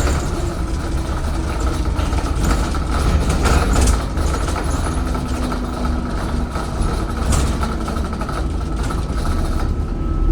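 Alexander Dennis Enviro 400 hybrid double-decker bus running on the road, heard from on board: a deep, steady rumble from its Cummins ISBe 4.5-litre diesel under a steady high whine, with scattered rattles.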